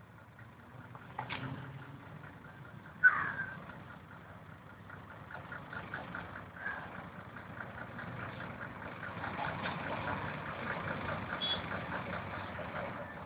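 A vehicle engine idling under the noise of a sandstorm's wind, which swells in the second half. A fast, regular ticking runs along with it, and a single sharp knock comes about three seconds in.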